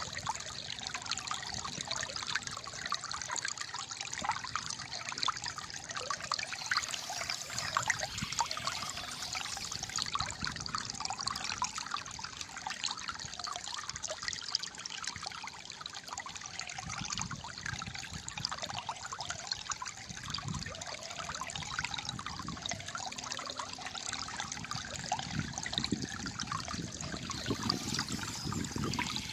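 Small stream of water trickling and gurgling continuously, a dense mix of little splashes.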